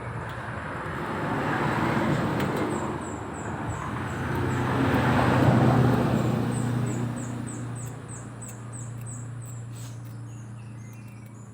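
Road traffic passing, its noise swelling twice and fading away, over a steady low hum, with runs of quick, repeated high bird chirps.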